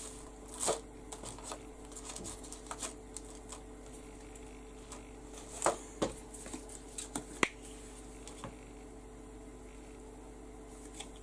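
Scattered light taps and clicks of craft supplies being handled on a work table, with a plastic stencil set down on the page, over a faint steady hum.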